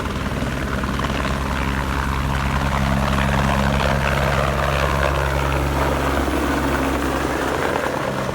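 Helicopter running in flight: a steady drone of rotor and turbine engine with a dense rushing noise over it.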